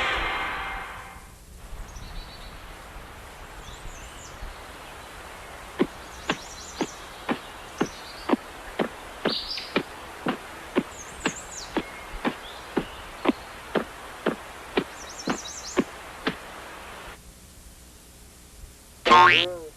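Cartoon outdoor ambience with faint bird chirps, under a run of evenly spaced sharp taps, about two a second, for some ten seconds. The ambience cuts out near the end, and a loud, short cartoon sound effect with a wobbling pitch follows.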